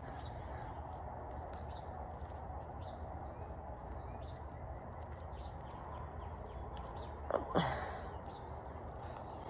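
Outdoor garden background with faint, repeated bird chirps over a steady low hum. About seven and a half seconds in, there is a brief, louder sound that slides sharply down in pitch.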